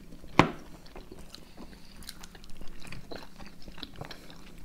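Close-up chewing and wet mouth sounds of people eating soft vareniki with yogurt, with small smacks and clicks throughout and one sharp click about half a second in.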